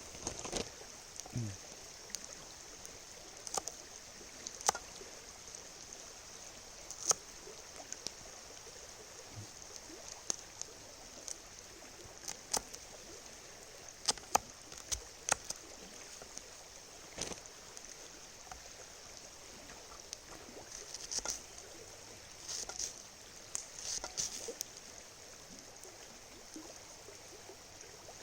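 Steady rush of a flowing river, with many short sharp clicks and pops scattered through it.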